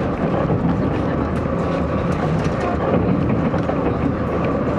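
Steady rumble of a Taiwan Railways DR3000 diesel railcar under way, heard from inside the passenger car: running gear on the rails and engine drone, with a faint steady whine above it.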